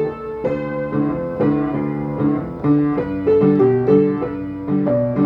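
Piano playing a festa junina tune: a melody over steady rhythmic chords, several notes a second.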